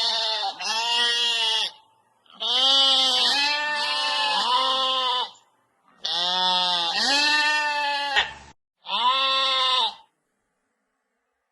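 An animal calling over and over, a string of pitched calls about a second each, grouped with abrupt silent gaps between them; a short sharp click comes just after the middle.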